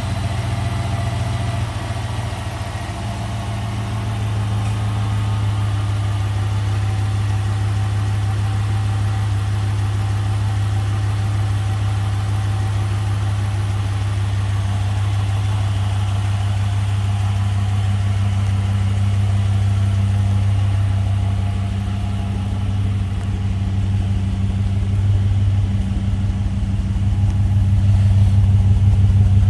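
2009 Jeep Grand Cherokee's 5.7-litre Hemi V8 idling steadily, a little louder near the end.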